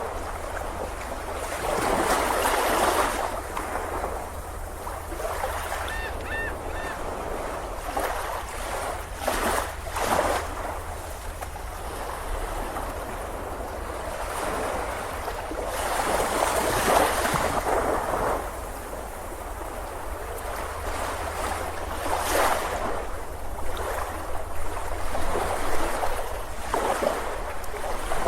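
Sea waves breaking and washing up the shore, the surf rising and falling in surges, with the biggest swells about two seconds in and again around sixteen seconds in.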